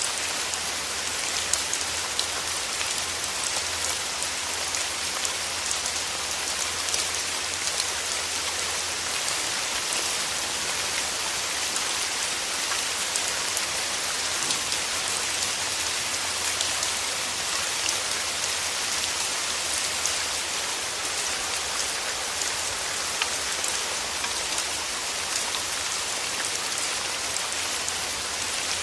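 Steady rain, an even hiss dense with the small ticks of individual raindrops striking close by.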